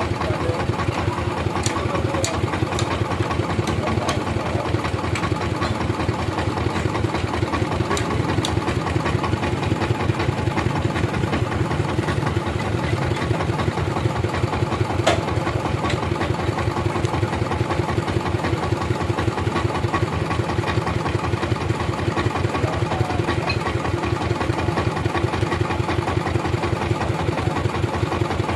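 Sawmill engine idling steadily with a fast, even beat. A few sharp clicks come in the first several seconds and one about halfway through.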